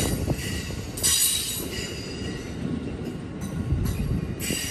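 Amtrak passenger cars rolling past and away with a low rumble, the wheels giving out short spells of high-pitched squeal, about a second in and again near the end.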